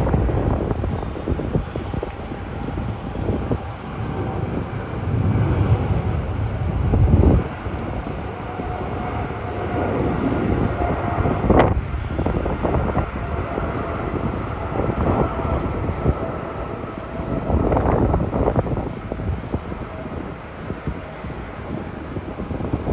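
Boeing 777 jet engines at takeoff power, heard as a steady roar with a faint whine that sags slightly in pitch as it passes. Heavy wind buffeting on the microphone, with loud gusts about seven and eighteen seconds in.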